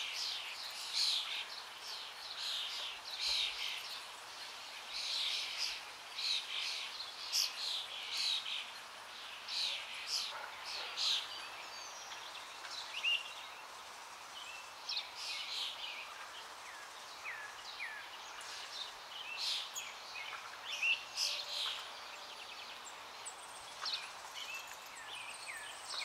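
Birds calling: a running series of short, sharp chirps, with a few short rising whistled notes around the middle, over a steady outdoor hiss.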